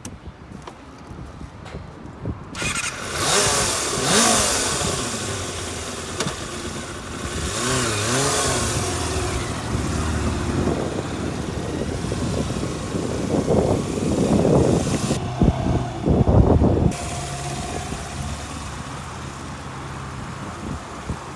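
Kawasaki Balius II's 250 cc inline-four engine starting about two and a half seconds in, then revved up and down several times with a few sharp blips, before settling to a steady idle.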